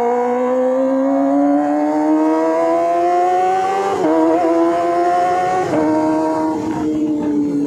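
Kawasaki ZX-25R's inline-four engine through an SC Project aftermarket exhaust, accelerating under light throttle: a rising exhaust note broken by two upshifts, about four and six seconds in, then easing off near the end.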